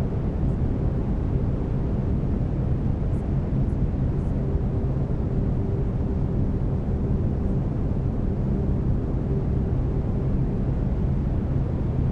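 Brown noise: a steady, deep hiss weighted to the low end, with faint steady low tones of binaural beats under it.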